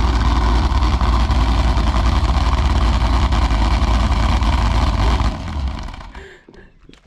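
Chevrolet Caprice PPV's engine running steadily through an exhaust with party whistles stuffed into the tailpipes: a loud, steady rush over a deep rumble. It drops away about five seconds in.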